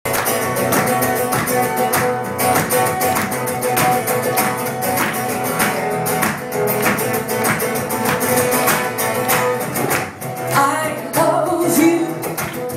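Guitar strummed hard in a fast, driving rhythm. A woman's singing voice comes in near the end.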